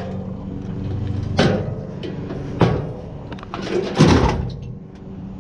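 Three sharp knocks about a second and a half apart, the loudest about four seconds in, over the steady hum of an idling vehicle engine.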